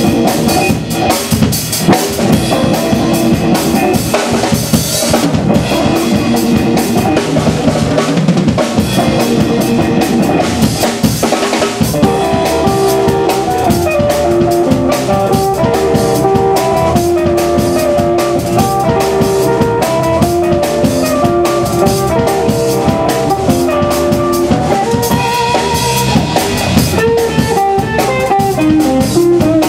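Live blues band playing, drum kit and guitar prominent, with a steady beat.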